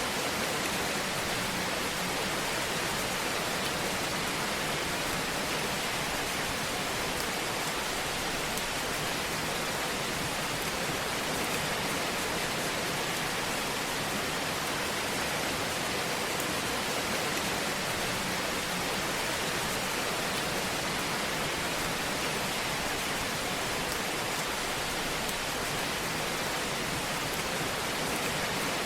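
Wood fire burning in a fireplace: a steady hiss with light crackling.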